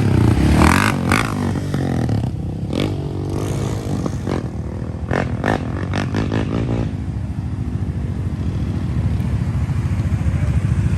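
Off-road bike engine running steadily, a little louder right at the start, with several sharp clattering knocks between about two and seven seconds in.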